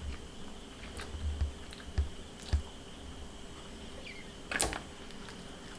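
Quiet mouth sounds of someone chewing a bite of grilled fish: a few soft clicks and smacks, the sharpest about four and a half seconds in, over a faint steady hum.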